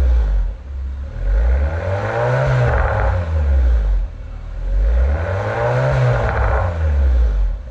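2019 Honda Fit 1.5-litre four-cylinder engine revved through a full aftermarket exhaust system (header with metal catalytic converter, mid-pipe and single-can muffler). The note falls away at the start, then climbs and drops back twice more in smooth rev blips.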